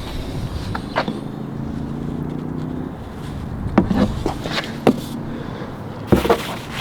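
A low, steady motor hum that fades out after about three seconds, with a few sharp clicks and knocks.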